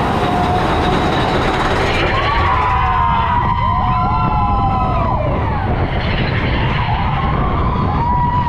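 Big Thunder Mountain Railroad mine-train coaster running along its track, heard from a seat on the train: a loud, steady rumble of wheels and rushing air. A high metallic squeal of several wavering tones comes in about two seconds in and lasts about three seconds, and a shorter squeal comes near the end.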